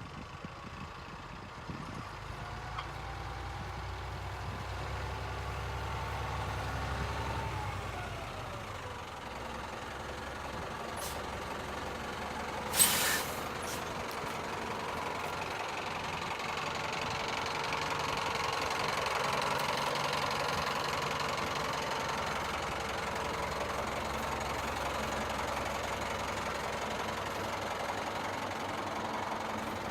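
Diesel engine of a 1991 Freightliner FLD112 truck tractor running, with one short, loud hiss of air about 13 seconds in, typical of the truck's air brakes.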